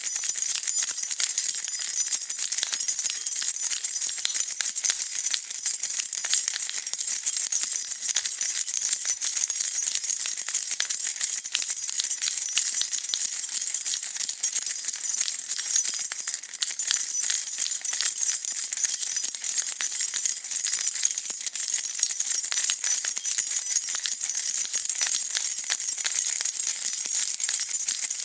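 A bunch of metal keys shaken continuously, a dense, steady jingling of keys clinking against one another.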